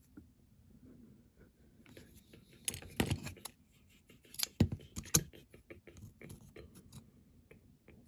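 Small metal and plastic model-car parts being handled and fitted together by hand: a run of sharp clicks and light knocks, loudest about three seconds in and again at four and a half and five seconds in.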